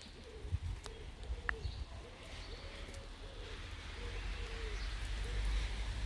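A pigeon cooing in a run of short, low coos over steady rain hiss, with a low rumble building near the end.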